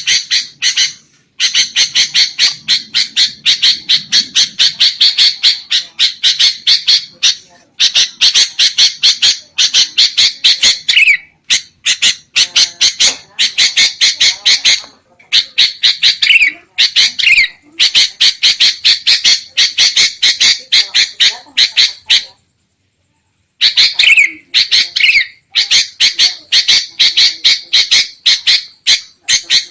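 Sooty-headed bulbuls (kutilang) giving an agitated, noisy chatter: rapid harsh notes, several a second, in bouts of a few seconds with short breaks and a pause of about a second near the end. This is the 'kutilang ribut' call used as a lure for wild bulbuls.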